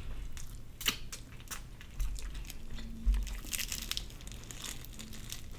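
Close-up eating sounds: bites and chewing on crispy fried chicken, with scattered small crackles and crunches and a couple of soft thumps.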